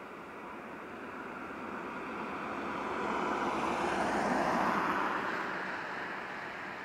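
Jet engine noise from an Airbus A380's four GP7200 engines as it passes, a broad roar that swells to its loudest about four seconds in and then fades, with a faint high whine at the peak.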